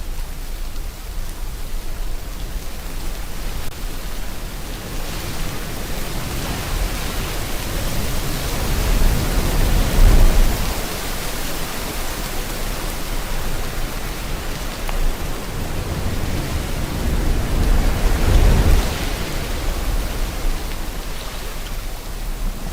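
Steady rain hiss with sea waves surging under it. Two waves swell and break, the louder about ten seconds in and another near the end.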